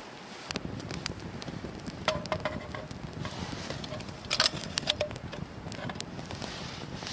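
Campfire crackling and popping over a steady rushing noise, with a few short metallic clinks around the middle.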